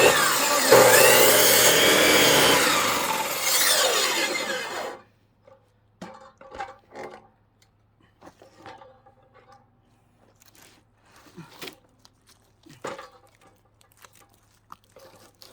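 A power saw cutting into a log for about five seconds, its pitch dipping and rising as the blade loads in the wood, then stopping. Soft knocks and rubbing follow as the log is handled.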